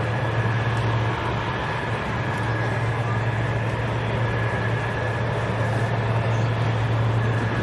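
Aircraft engines running steadily on the ground: a continuous low hum under a thin, steady high whine.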